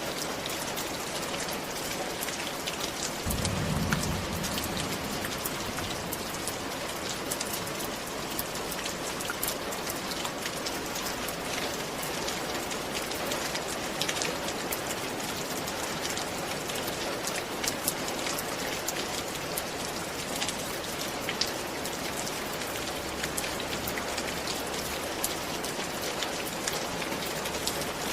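Steady rain falling, with many individual drops tapping close by. A brief low rumble comes in about three seconds in.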